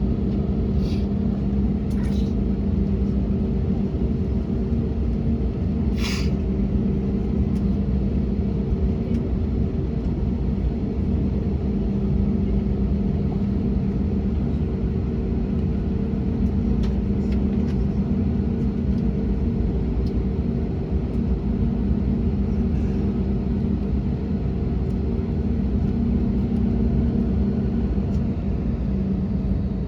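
Steady low cabin drone inside an Airbus A321neoLR on the ground after landing, with a constant hum of two held tones from the engines and air-conditioning. A few faint clicks come in the first six seconds or so.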